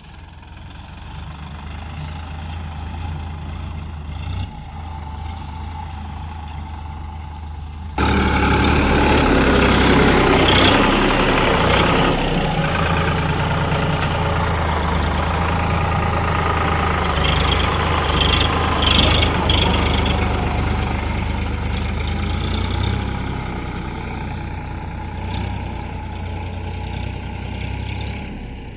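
Tractor diesel engine running steadily, then suddenly much louder and rougher about eight seconds in, the sound easing off gradually toward the end.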